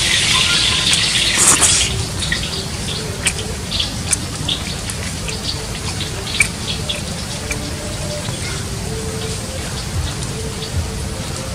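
Close-up eating sounds: scattered small wet clicks and smacks as cooked water snake meat is pulled apart and chewed, over a steady low background noise. A louder hiss fills the first two seconds.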